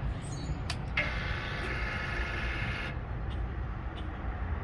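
A click as the ignition is switched on, then a steady electric whir for about two seconds that cuts off sharply: the motorcycle's fuel pump priming at key-on, engine not running.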